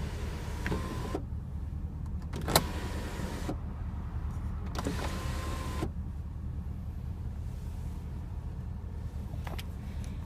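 Electric sunroof motor of a 2015 Porsche Panamera Turbo running in three short spells, each ending with a click, over a steady low hum.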